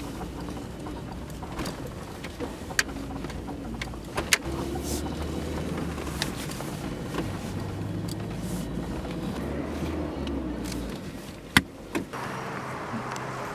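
A low mechanical hum from a car, heavier for about six seconds in the middle, with a few sharp clicks.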